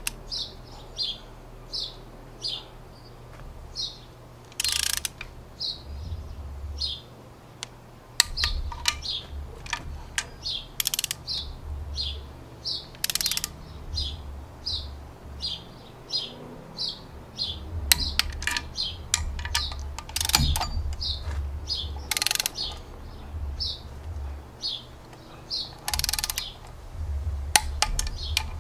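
A small bird chirps over and over, roughly two short high calls a second. Under it, a ratchet wrench clicks through strokes, tightening the Torx E12 timing-side head bolts on an Ecotec cylinder head, with a few sharper, louder clicks standing out.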